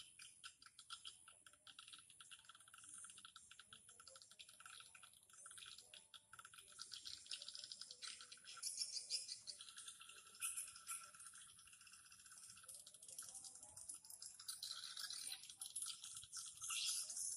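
Swiftlet calls: dense, rapid twittering and rattling chirps, high-pitched and faint, swelling louder at times.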